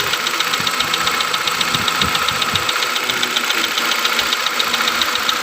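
2019 Hyundai Accent sedan engine idling steadily with a fast, even ticking clatter over its running. The engine is described as noisy, with uneven compression readings (one cylinder down at 60) and a suspected valve-train fault at the self-adjusting rocker arms.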